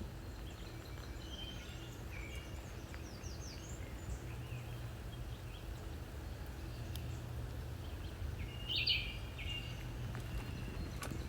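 Songbirds chirping and trilling in short phrases, with a louder call about nine seconds in, over a steady low rumble.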